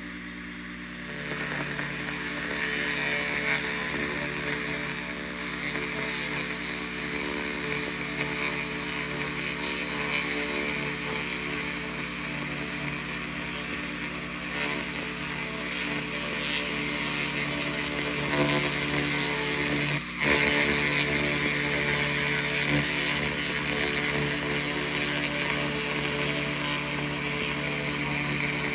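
2000 W laser rust remover running on metal: a steady machine hum with a hiss over it, briefly breaking about two-thirds of the way through.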